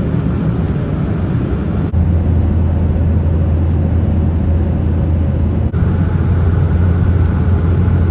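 Steady cabin noise inside a Boeing 787-9 airliner in descent: a low rumble of engines and rushing air. The sound shifts abruptly about two seconds in and again near six seconds, where the low hum grows stronger.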